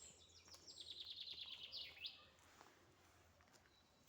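A small songbird singing a short, faint trill: a quick run of about ten high notes a second, ending in one sweeping note, with a few thin chirps just before it.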